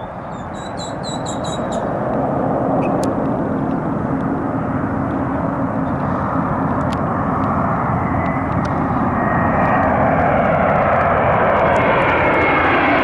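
Jet engines of an Airbus A350-900 airliner running close by, the rush building over the first few seconds as the plane comes toward the listener, then holding loud and steady with a low hum and a faint high whine.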